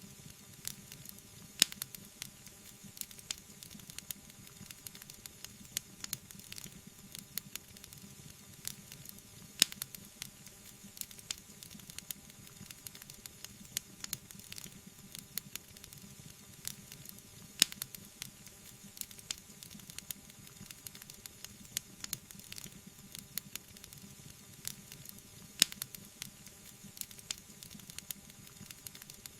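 Wood fire in a fireplace crackling and hissing, with many small pops and four louder pops about eight seconds apart.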